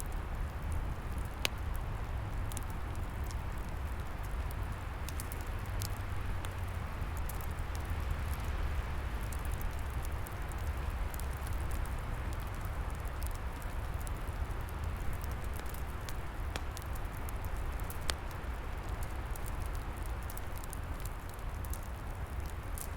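Wood fire crackling, with scattered sharp pops over a steady rushing wind in the trees. Two louder pops stand out, one about a second and a half in and one near eighteen seconds.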